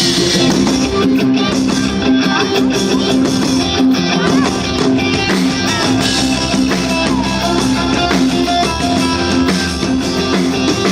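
Live band playing, with guitar and a drum kit.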